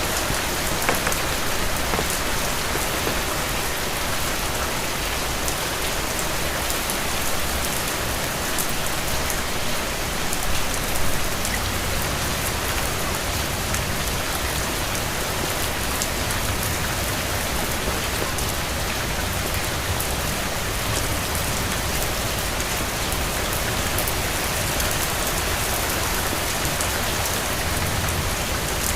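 Steady rain falling and pattering on hard surfaces: an even hiss with scattered drop ticks throughout.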